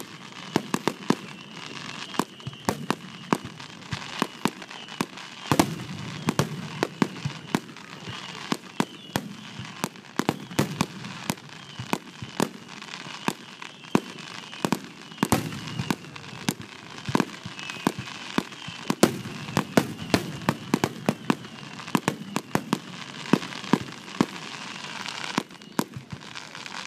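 Aerial fireworks shells bursting in rapid, irregular succession: a continuous run of sharp bangs, often several a second.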